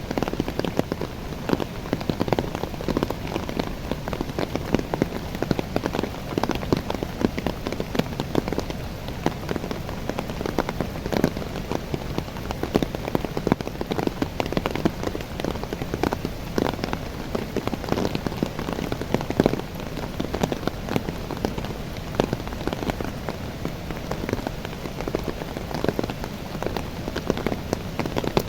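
Steady rain falling on the leaves of young coffee plants: a dense, even hiss made up of countless separate drop hits.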